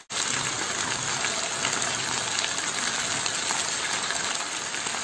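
Batter-coated chicken pieces deep-frying in hot oil in a pan: a steady sizzling hiss with small crackles and pops. The sound drops out for an instant right at the start.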